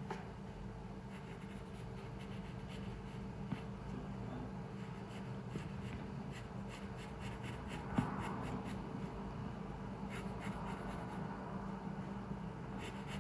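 Pencil scratching on paper in short drawing strokes, with a small click about three and a half seconds in and a louder knock about eight seconds in, over a steady low room hum.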